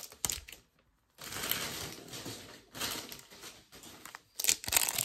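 Trading-card packs being handled: cards slid and flicked through with small clicks, and a foil pack wrapper crinkling. There is a brief hush about a second in, and the crinkling grows louder near the end.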